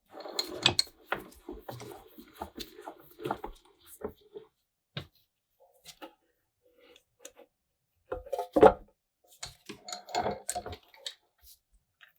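Hands working on small metal lantern parts with tools: irregular clicks, scrapes and light knocks, with one sharper knock about eight and a half seconds in.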